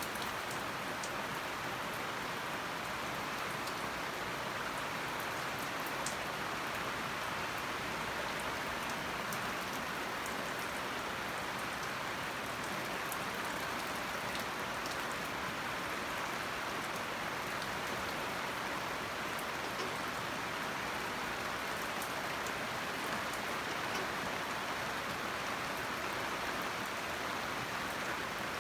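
Rain falling steadily: an even hiss with scattered sharp ticks of single drops.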